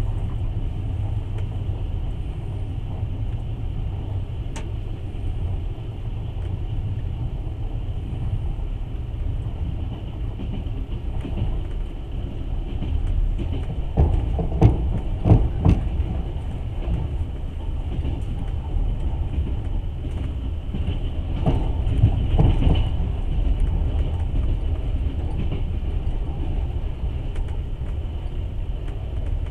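Passenger train running, heard from inside the carriage: a steady low rumble of wheels on the rails. There are two short runs of sharp wheel knocks, one about halfway through and another a few seconds later.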